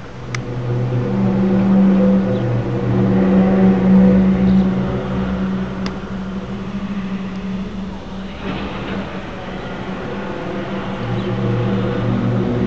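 A loud, low droning hum on two deep pitches, the lower tone dropping out and returning while the upper one holds, of the kind passed off as an eerie 'strange sound' in the sky. Two brief clicks break in, near the start and about halfway, and a hiss swells up about eight seconds in.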